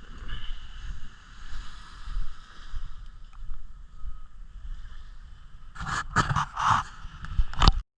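Muffled sea and surf heard through a GoPro's waterproof diving case: a low, uneven rumble with faint hiss, then a run of loud splashes or knocks against the housing near the end, cutting off suddenly.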